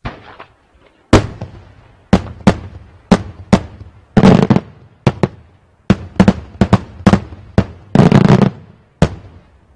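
Daytime aerial fireworks shells bursting in the sky, more than a dozen sharp bangs about a second apart, each trailing off in echo. There are quick runs of bangs about four seconds in and again near the end.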